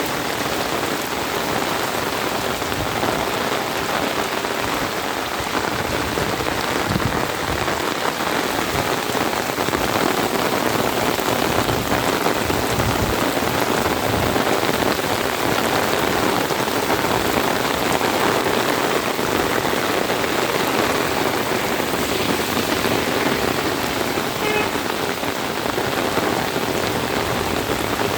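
Steady rain falling, a dense even wash of drops that keeps up without letting off.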